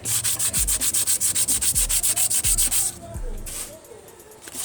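Hand sanding of an AC compressor part on fine-grit abrasive paper, rapid back-and-forth strokes about ten a second, used like honing to smooth a surface that is not as smooth as it should be. The strokes stop about three seconds in, with one short scrape after.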